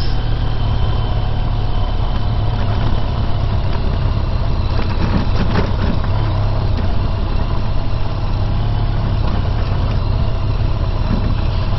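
Honda VFR1200X Crosstourer's V4 engine running steadily while the motorcycle is ridden, with wind and road noise over it.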